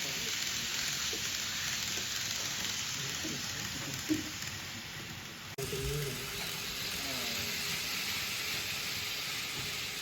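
N-gauge model trains running on a layout: a steady hiss of wheels and small motors, with faint voices underneath. The sound breaks off abruptly about halfway through and a similar hiss carries on.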